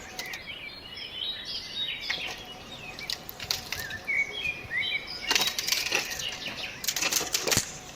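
Small birds chirping repeatedly in short notes. About five seconds in, and again near the end, come bursts of rustling and clattering.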